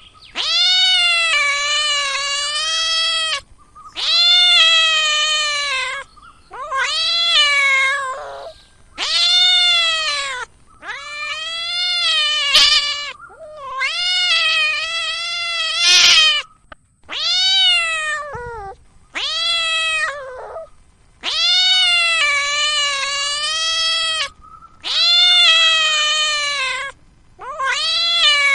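Domestic cat meowing over and over: about a dozen long, drawn-out meows, each one to three seconds, rising and falling in pitch, with short pauses between them.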